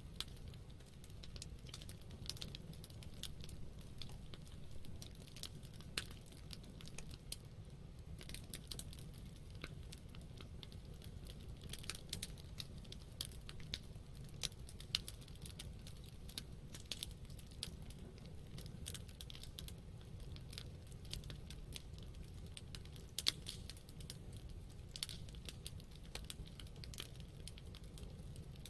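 Wood campfire crackling, with many small sharp pops and snaps at irregular intervals, a few louder pops among them, over a low steady rumble.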